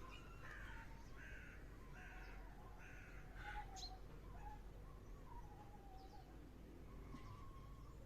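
A crow cawing five times in quick succession, about one harsh caw a second, then stopping, with faint thin whistling calls underneath.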